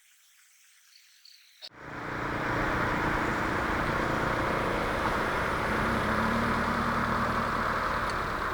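Quiet at first, then about two seconds in a loud, steady rush of road traffic noise cuts in abruptly, with a low rumble underneath.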